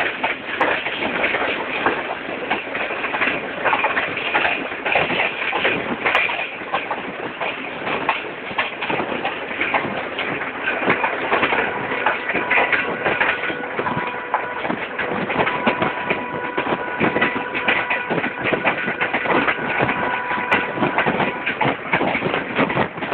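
Tezgam Express passenger coach running along the track, heard from the coach itself: a steady rumble and rattle of wheels on rails and the carriage. A faint steady whine joins in from about the middle.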